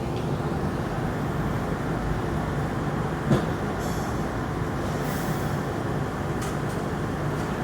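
Steady low rumble and hum inside an airport SkyTrain people-mover car. There is a brief knock about three seconds in and a short hiss about five seconds in.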